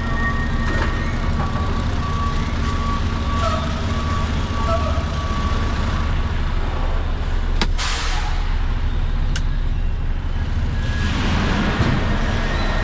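Truck engine running steadily, heard from inside the cab, with a sharp click and a short burst of hiss about eight seconds in and another rush of hiss near the end.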